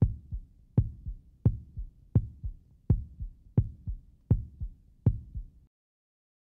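Heartbeat sound effect: a low lub-dub thump repeating at about 80 beats a minute, eight beats in all, then stopping suddenly.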